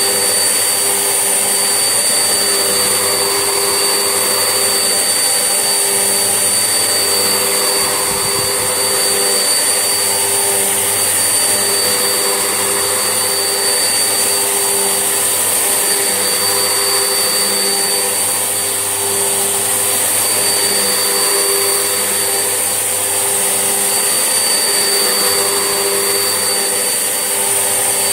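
Vax Essentials vacuum cleaner running steadily: a constant motor whine over a loud rush of air, with a couple of slight dips in level.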